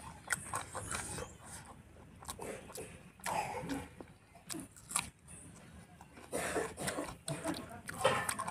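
Close-up chewing and wet mouth sounds of a person eating rice and pork curry, with irregular smacks and clicks.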